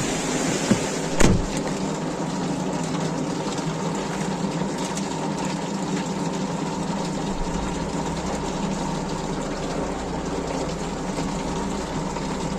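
Heavy rain pouring down steadily, with a steady low hum under it and one sharp knock about a second in.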